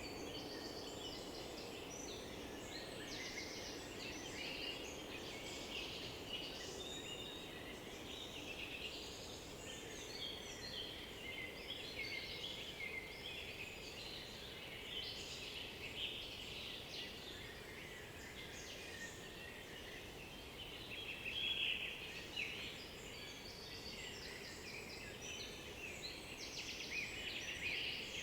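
Dawn-chorus-like mix of several songbirds singing at once in an oak-beech forest, many overlapping chirps and trills, over a steady low background hum.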